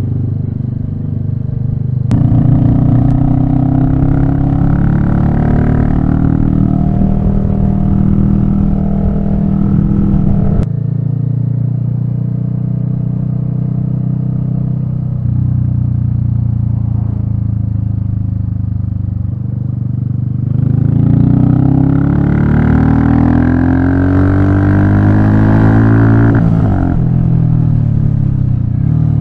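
Royal Enfield Meteor 350's single-cylinder engine running on the move, rising in pitch as it pulls up through the revs about two seconds in and again about two-thirds of the way through, with a steadier drone between.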